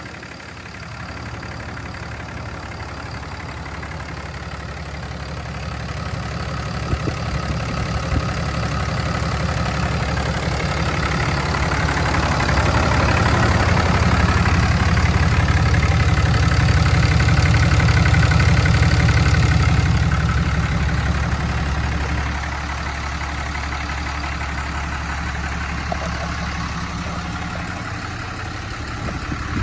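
2008 RAM 4500's 6.7-litre Cummins turbo-diesel engine running at idle. It grows louder over several seconds, then drops back to a steadier, quieter idle about 22 seconds in.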